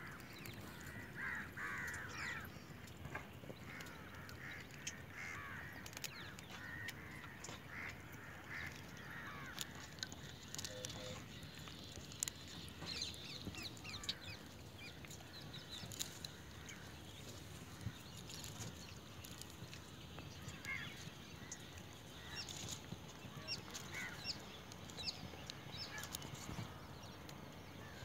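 Birds calling in the background: a quick run of short repeated calls for the first nine seconds or so, then scattered higher chirps with a few small clicks.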